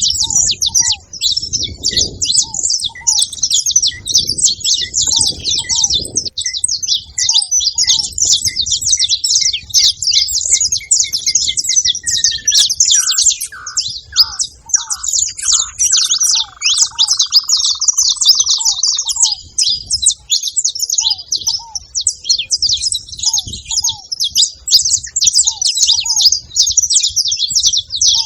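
Saffron finch twittering without pause, a dense stream of rapid high chirps. About halfway through, a lower call slides down in pitch and holds for a few seconds.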